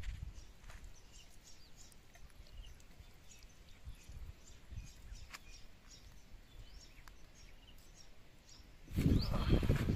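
Small birds chirping on and off in the background against faint outdoor noise. A louder rustling and handling noise starts about a second before the end.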